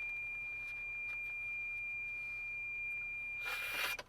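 A steady high-pitched electronic tone held on one pitch, with a short burst of noise just before everything cuts off near the end.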